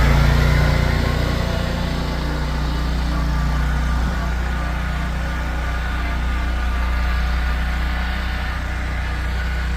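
A vehicle engine running steadily with a strong low rumble, easing down a little about a second in.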